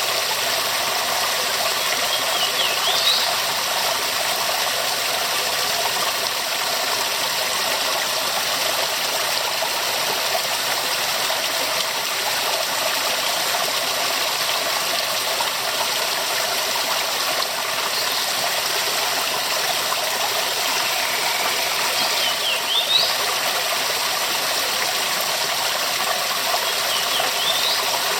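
Waterfall, water falling and splashing in a steady rush, with a few short high chirps over it about three seconds in, around twenty-two seconds and near the end.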